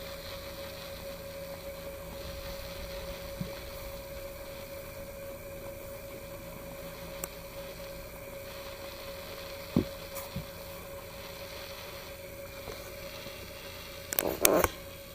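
A steady hum over an even hiss, with a few isolated clicks and a short cluster of knocks about a second before the end.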